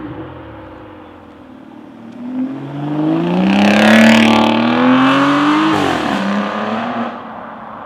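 V12 supercar engine accelerating hard, its note climbing in pitch and loudness for about three seconds, then dropping sharply about six seconds in and fading.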